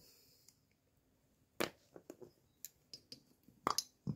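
Scattered light metallic clicks and taps of small valve-train parts, the rocker arm and its pin, being handled. The loudest pair of clicks comes near the end.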